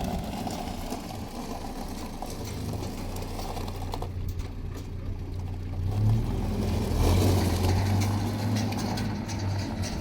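Car running on the road: a steady low engine drone with road noise, swelling louder about six to eight seconds in.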